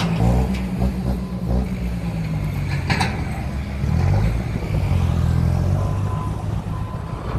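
Motor vehicle engine running, its pitch rising and falling, with a single sharp click about three seconds in.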